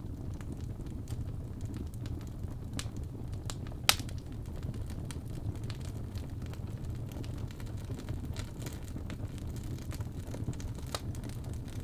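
Wood fire crackling: a steady low rumble with scattered pops and clicks, the sharpest pop about four seconds in.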